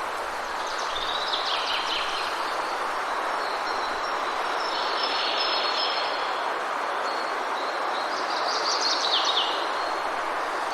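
Forest ambience: a steady rushing noise like rain in trees, with a small bird singing three short bursts of song over it, near the start, in the middle and near the end.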